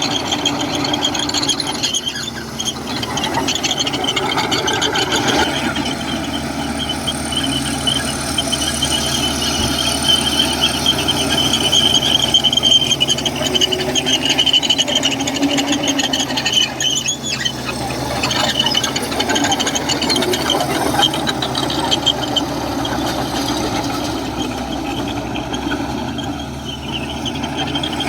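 Komatsu crawler bulldozer at work: its diesel engine running steadily while the steel tracks squeal continuously, the high squeal wavering in pitch and loudness as the machine moves.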